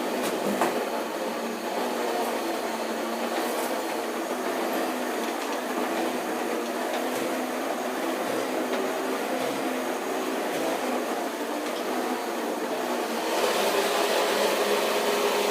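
Vacuum cleaner running steadily, a motor drone with a hum in it, getting somewhat louder about 13 seconds in, while it sucks up broken glass.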